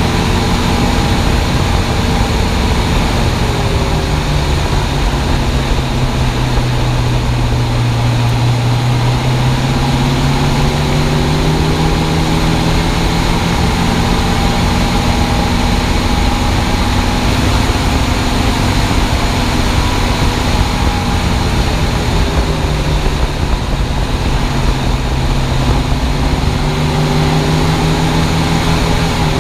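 1965 Ford Mustang on the move, heard close under the car: a steady rush of road and wind noise with the engine note, which drops and then climbs again twice. The rubbing noise the owner feels and hears from the front passenger side does not come through.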